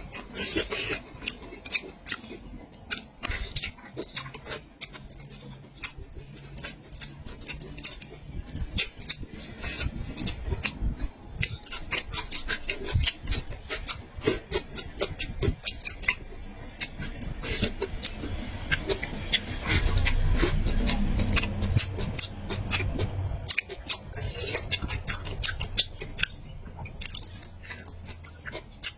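Close-miked chewing of meat: wet mouth smacks and clicks, coming irregularly and thickly. A low hum comes in about twenty seconds in.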